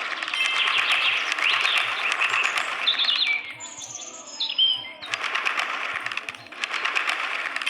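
Baya weaver birds chattering together: a dense, buzzy, clicking chatter that drops away for about a second and a half midway, leaving a few separate clear chirps, then starts again.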